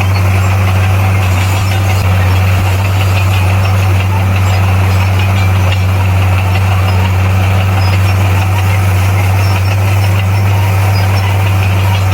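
Bulldozer's diesel engine running steadily, a deep even drone that holds one pitch throughout.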